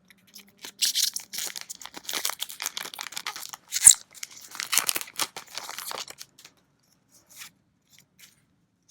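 A trading-card booster pack's wrapper being torn open, crinkling and tearing, with one sharp snap about four seconds in; after about six seconds only a few faint ticks.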